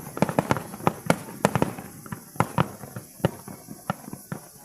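Aerial fireworks bursting in quick succession, a rapid string of sharp bangs and crackles that thins out over the last couple of seconds.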